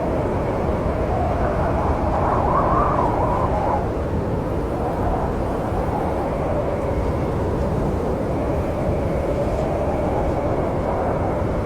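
Snowstorm wind howling: a steady rushing rumble with a moaning tone that slowly rises and falls in pitch.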